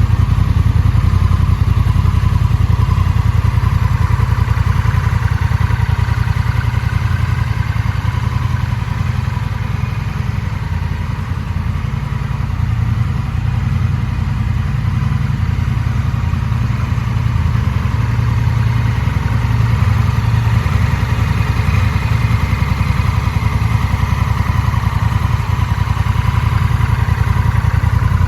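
Honda Rebel 1100's parallel-twin engine running steadily at idle through a Moriwaki aftermarket silencer, a deep, even exhaust rumble.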